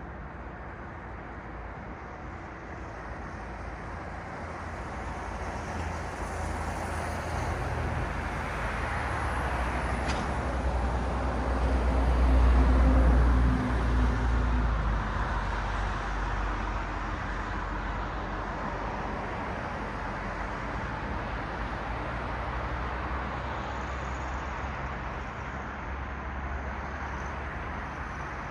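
Road traffic: cars passing on a city street, with a steady wash of tyre and engine noise. The sound swells as one vehicle passes close, loudest about halfway through with a deep rumble, then settles back to a steady traffic hum.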